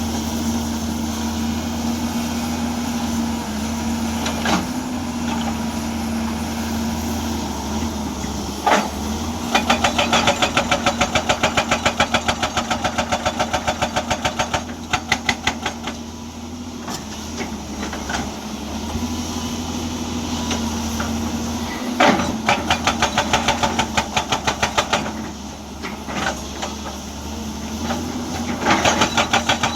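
A Hyundai excavator's diesel engine runs steadily while its hydraulic breaker hammer pounds rock in rapid, evenly spaced blows. It does this in three bursts, the first starting about a third of the way in, with a few single sharp knocks between them.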